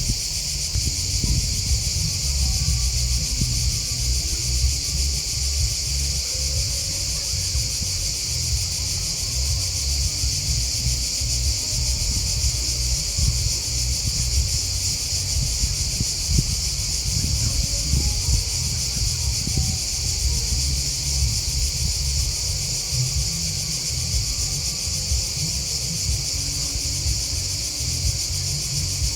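A dense, steady chorus of chirping grasshoppers and crickets, high-pitched and unbroken, over a low, uneven rumble.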